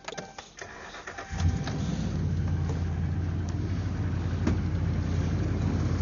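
A few clicks, then a Dodge pickup truck's engine starts about a second and a half in and settles into a steady idle.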